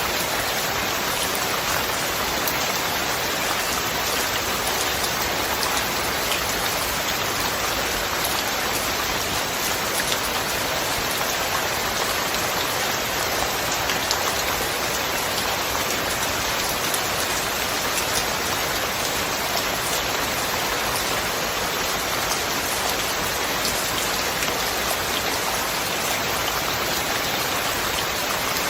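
Steady rain falling, with a dense patter of individual drops hitting a surface over an even hiss.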